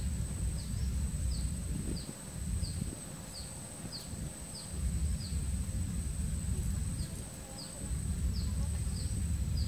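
Outdoor ambience at a mangrove-fringed pond: a bird repeats a short falling chirp about twice a second over a steady high insect whine, with a low rumble of wind on the microphone underneath.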